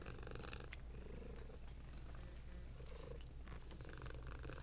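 A small domestic cat purring steadily and quietly, with a soft rise and fall.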